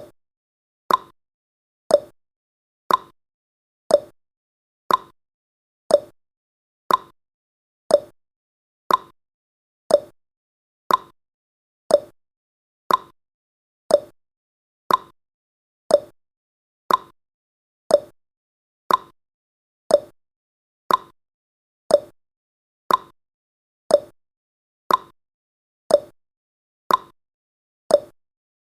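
Ticking sound effect of a countdown timer: one short click every second, alternating between a higher and a lower click like a clock's tick-tock.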